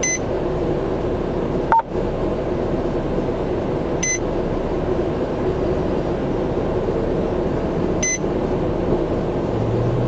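Steady hum of a patrol car's cabin and running engine, with a short high electronic beep repeating about every four seconds, three times. A brief radio-style click with a short tone cuts in near two seconds in.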